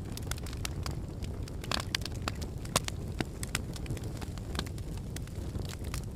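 Volcanic eruption or advancing lava flow: irregular sharp cracks and pops over a steady low rumble.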